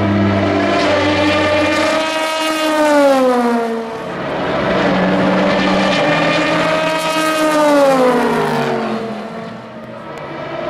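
Two endurance race cars pass one after the other at speed. Each engine note swells and then drops in pitch as the car goes by.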